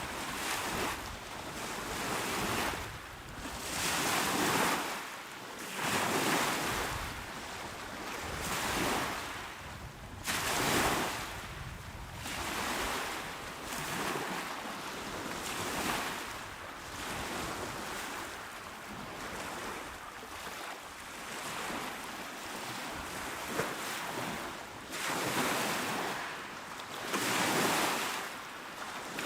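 Small, calm ocean waves washing onto a shore, each one swelling and ebbing every two to three seconds in a continuous hiss of surf.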